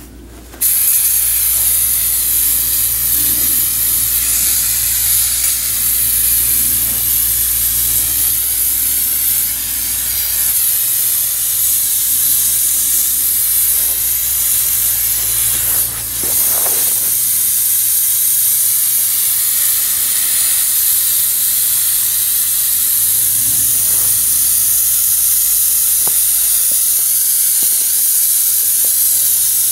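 Aerosol can of engine degreaser spraying in a long, steady hiss, with a brief break about halfway through.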